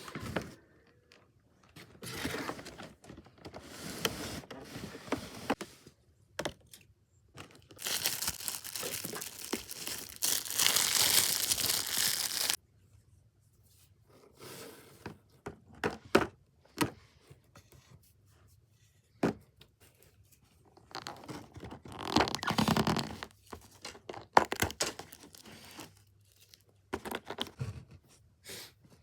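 Model-building materials being handled by hand: irregular tearing, crinkling and scraping with scattered clicks and knocks. A long, loud stretch of tearing noise runs from about eight seconds in to about twelve and a half.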